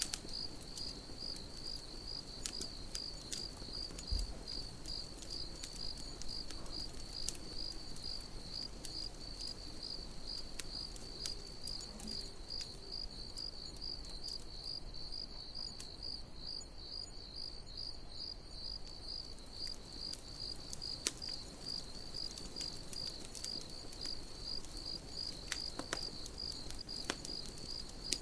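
Crickets chirping steadily, a high pulsing trill at about two or three chirps a second, over the sparse pops and crackles of a campfire.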